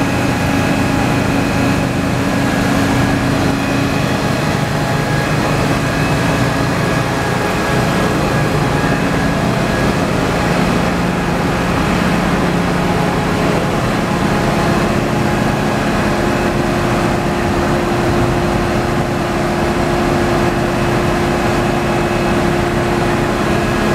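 A motor running steadily and loudly, its hum shifting in pitch a couple of times.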